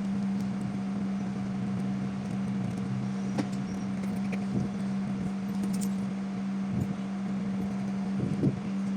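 A steady low mechanical hum at one constant pitch, with a few light clicks and taps scattered over it.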